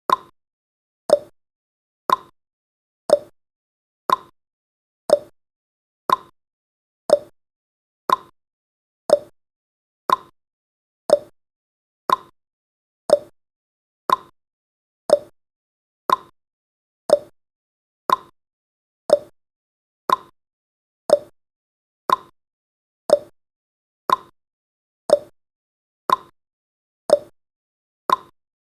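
Clock-tick sound effect of a countdown timer: a sharp tick once a second, alternating higher and lower like a tick-tock, marking the seconds as they count down.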